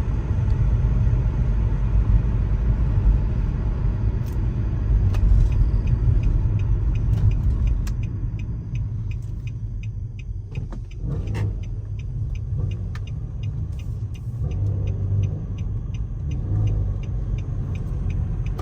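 A Nissan car's engine and exhaust droning low while driving, heard from inside the cabin, louder for the first half and then easing off. The exhaust sounds raspy because debris from a dead deer is lodged under it. From about halfway there is also a light, even ticking, about two to three ticks a second.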